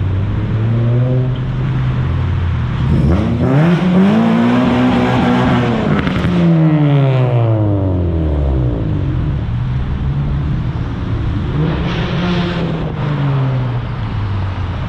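A car engine revving: one long rev about three seconds in climbs, holds high for a couple of seconds and falls away. Shorter, lighter revs come before and after it.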